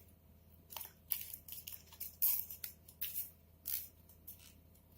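Handling noise from working polyfoam craft pieces and tape: short scratchy crackles and rustles at irregular intervals.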